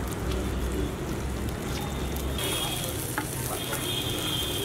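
Food sizzling as it fries in a cooking pot, an even steady hiss.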